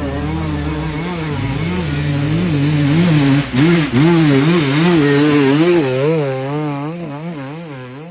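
Motocross dirt bike engine revving up and down over and over as the bike is ridden, its pitch rising and falling about twice a second. It is loudest in the middle, cuts out briefly a little past three seconds in, and fades near the end.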